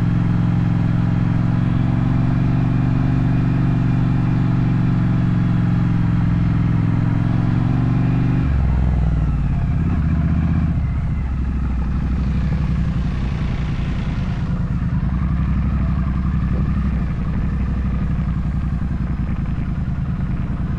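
Triumph Street Twin 900's parallel-twin engine running steadily on the move. About eight seconds in its note drops and it settles at lower revs.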